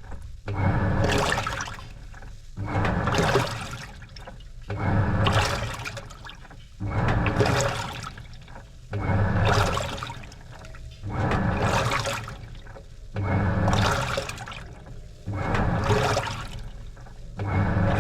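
Washing machine agitating a load in its wash water: a rhythmic slosh and churn about every two seconds, each surge lasting over a second with a short lull between as the drive reverses.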